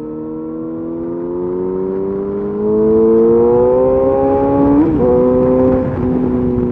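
Yamaha FZ8's inline-four engine through a LeoVince exhaust with the dB killer removed, accelerating with its pitch rising steadily. About five seconds in the note breaks briefly as it shifts gear, then holds steadier and a little lower.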